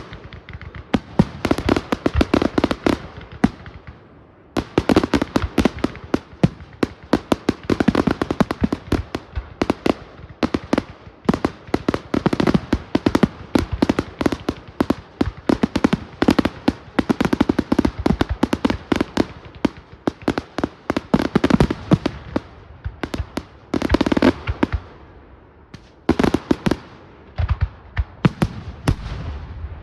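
Fireworks going off in a rapid, near-continuous barrage of bangs and crackling, with short lulls about four seconds in and again towards the end.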